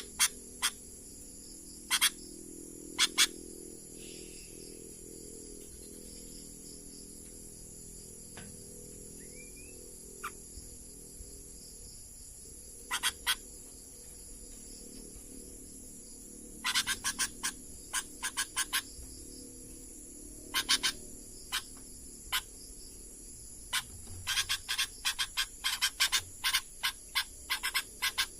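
Short, sharp animal chirps come singly and in small groups, with fast rattling runs about two-thirds of the way in and near the end. Under them runs a steady high-pitched insect drone.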